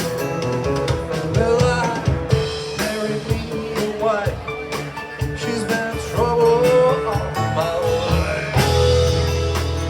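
Rock band playing: drum kit keeping a steady beat under guitar lines.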